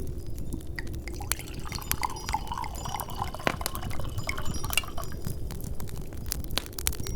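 Wood fire crackling in a fireplace with a steady low rumble of wind behind it. From about a second in until about five seconds, liquid is poured into a glass.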